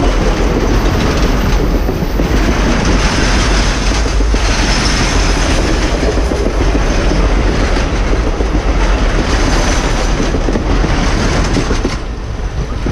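Passenger train rolling past close by, its wheels clattering steadily over the rails, the noise dropping off about twelve seconds in as the train goes by.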